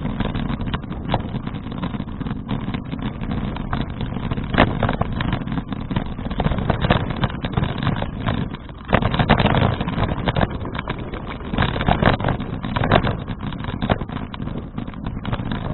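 Wind and rolling noise on a bicycle-mounted action camera's microphone while riding, with many small rattling knocks. The noise swells sharply about nine seconds in and again around twelve to thirteen seconds.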